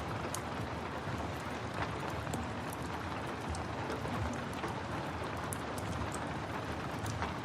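Steady rain with the scattered small pops and crackles of a wood fire.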